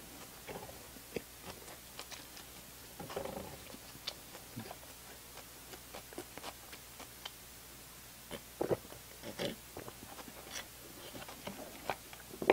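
Close-up eating sounds: soft chewing with small wet mouth clicks and smacks, then several louder gulps as milk is drunk from a small paper carton.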